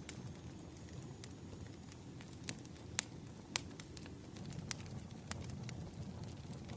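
Firewood burning in a fire, crackling with irregular sharp pops and snaps over a low, steady rush.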